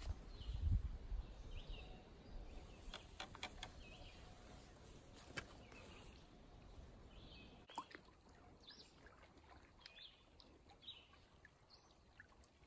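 Faint outdoor ambience with scattered short bird chirps, a few light clicks and taps from handling a compound bow and its arrows, and some low handling rumble in the first second or so.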